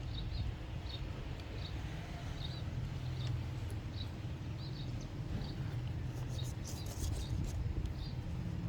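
Steady low rumble of background noise, with faint short chirps recurring about twice a second and a few light clicks in the second half.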